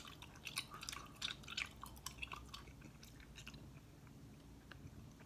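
Faint wet mouth clicks and smacks of someone chewing and working down a sticky mouthful of chocolate-orange toffee, thinning out to almost nothing about halfway through.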